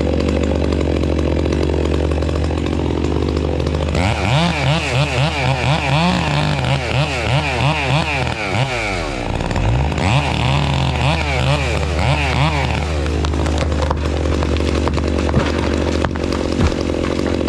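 Chainsaw cutting into a tree, its pitch rising and falling over and over through the middle of the stretch, over a steady low engine hum.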